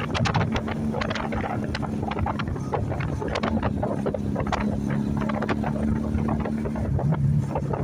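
Motorcycle engines running at a steady speed, with many short sharp sounds over the top.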